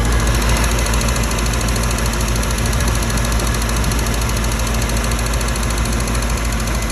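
Reliant Rialto's small aluminium four-cylinder engine running steadily at idle.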